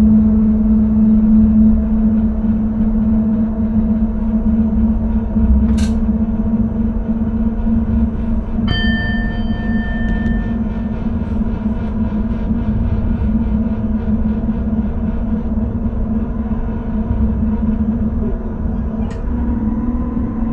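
Driver's cab of a Dutch intercity train running: a steady electric hum over the rumble of the wheels. A single electronic beep sounds for about two seconds partway through, and there are two sharp clicks. Near the end the hum begins to rise in pitch.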